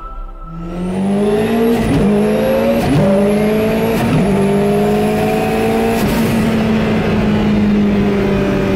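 Car engine heard from inside the cabin, accelerating hard and shifting up quickly three times, then running at a steady pitch as the car cruises. A faint high whine rises and falls with it.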